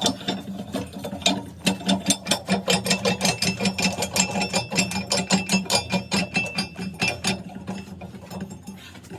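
Rapid, even mechanical tapping, several strikes a second, over a steady low hum; the strikes thin out and fade near the end.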